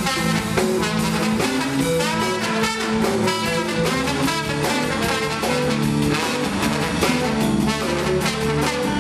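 Instrumental band music with drums keeping a steady beat under held brass notes.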